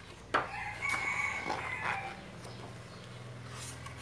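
Paper rustling as the pages of a thick photobook are turned, with a sharp snap about a third of a second in. Then comes a drawn-out bird call, about a second and a half long.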